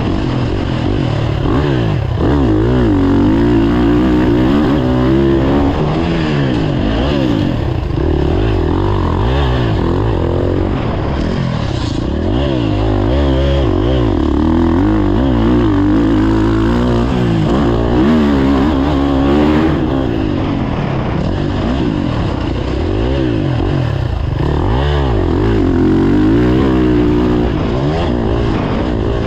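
Several motocross dirt bikes running on the track, their engines revving up and dropping back over and over as they accelerate and shift through the gears, overlapping one another.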